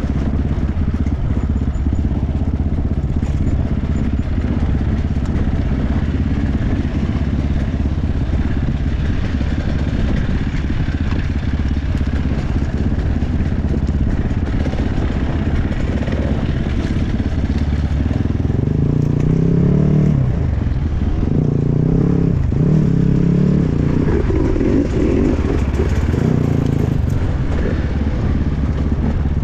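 Dirt bike engine running as the motorcycle is ridden off road, with the revs rising and falling more strongly in the second half.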